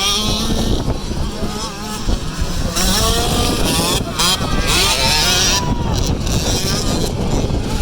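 Small two-stroke motocross bikes revving up and down on a dirt track, the engine pitch rising and falling again and again.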